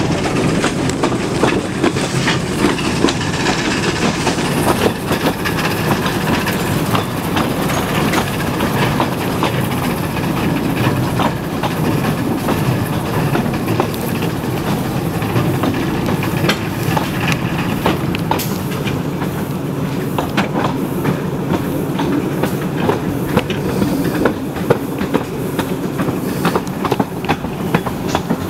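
Narrow-gauge railway carriage running along the track: a steady rumble and rattle of wheels on rail, with frequent irregular clicks from the wheels passing over rail joints.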